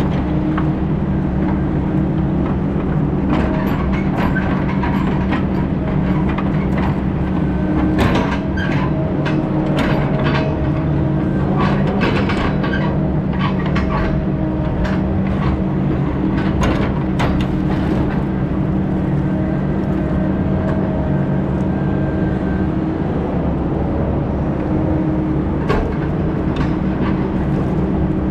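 Heavy diesel logging machine running steadily under load, with scattered sharp cracks and knocks through the middle of the stretch.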